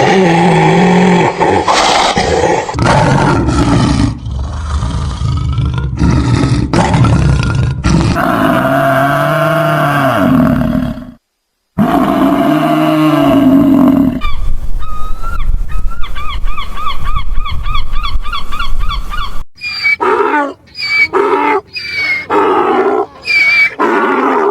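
A string of different animal calls, one clip after another: deep roars and growls first, then a fast warbling trill that repeats, then a run of short pitched calls.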